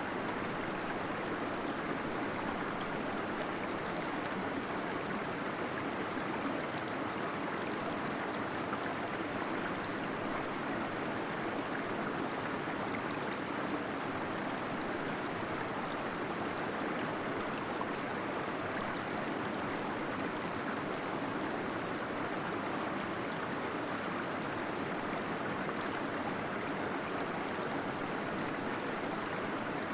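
Small waterfall splashing and gurgling, heard as a steady, even rush of water that echoes off cave rock.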